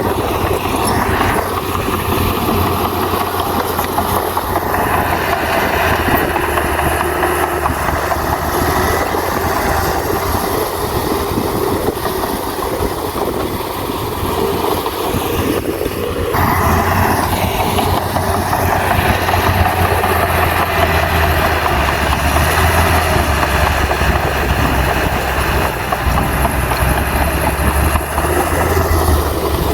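Bulldozer's diesel engine running steadily under load, with a dense mechanical clatter over it. The sound dips briefly about halfway through and returns with a stronger low engine hum.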